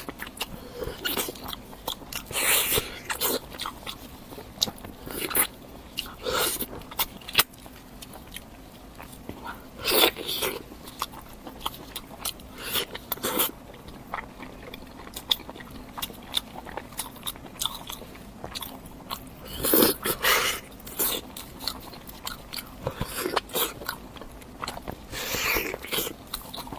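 A person biting and chewing food, with many sharp crunches and clicks and several louder bites spread through.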